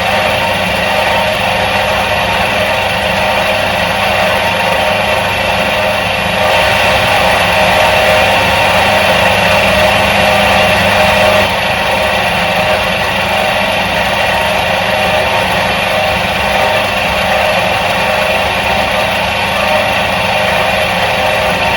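1977 Soviet washing machine's electric motor running with a steady hum. It swells slightly about six seconds in and settles back near the middle.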